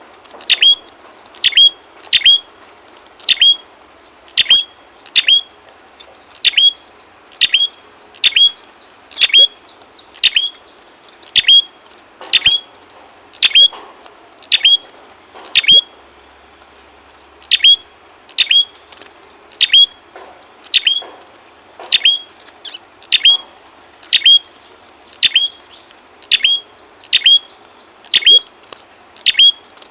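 Bird-lure recording of a prenjak kepala merah call: a loud, sharp chip that drops steeply in pitch, repeated about every two-thirds of a second, with a brief pause about sixteen seconds in.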